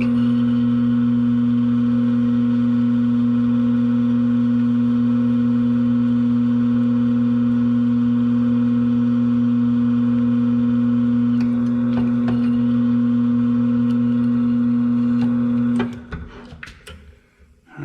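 Drill press motor running at a steady speed with a strong, even hum, likely while drilling an oiled screw hole. It is switched off about 16 seconds in and winds down over about a second.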